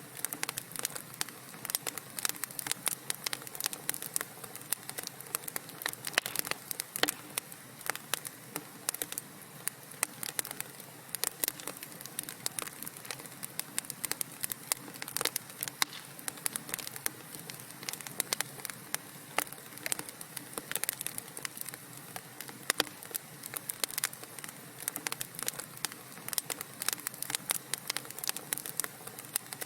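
Wood fire crackling: dense, irregular sharp pops and snaps from burning logs over a soft steady hiss.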